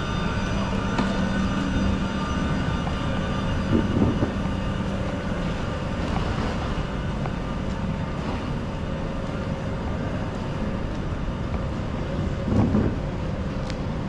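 Steady mechanical hum and rumble of a railway station with a train, with several constant whining tones over it. Two brief louder thumps, about four seconds in and near the end.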